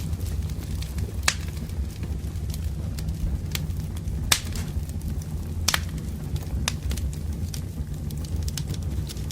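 Wood campfire burning with a steady low rumble and sharp crackling pops of burning firewood at irregular intervals, the loudest pop about four and a half seconds in.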